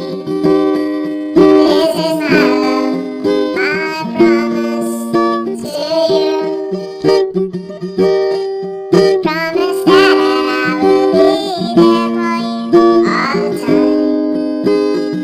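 Instrumental break of a slow song: plucked acoustic strings play chords, each chord ringing and fading before the next is struck every second or two.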